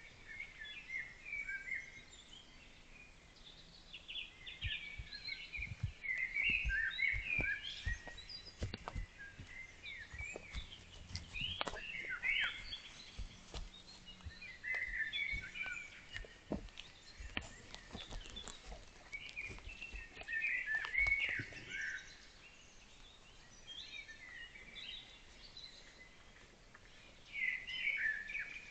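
Songbirds singing in repeated bursts of short chirps, with scattered soft knocks and thumps in between.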